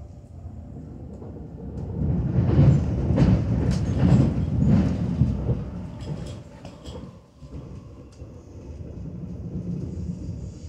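Swiss Federal Railways passenger train heard from inside the carriage, its wheels rumbling on the rails. From about two to six seconds in the rumble grows louder, with a run of sharp clacks, then it settles back.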